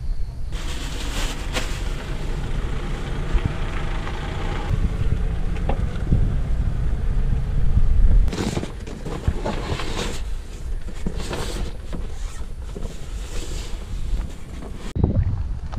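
Steady low rumble of a vehicle on the move, with repeated gusts of wind noise on the microphone.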